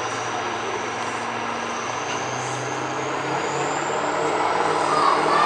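Turbocharged diesel pickup engine running hard under load, with a high turbo whistle that slowly rises in pitch. It grows louder near the end.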